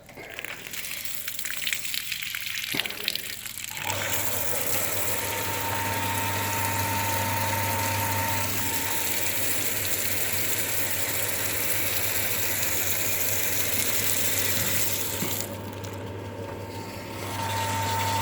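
Water starts running, and about four seconds in the rain tank's electric water pump, switched by its pressure controller, starts and runs with a steady hum and a thin whine over rushing water. Near the end the pump drops out for about two seconds, then starts again.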